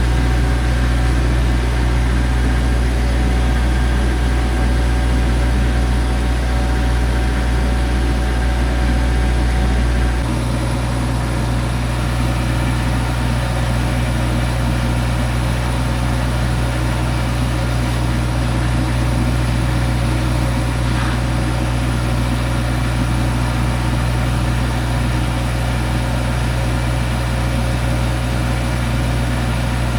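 An engine running steadily with a deep, even drone. About ten seconds in its lowest notes drop away and it settles slightly quieter.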